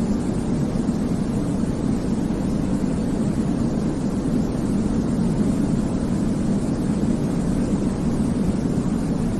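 Steady sleep-aid white noise: an even, deep hiss weighted toward low pitches, with no changes.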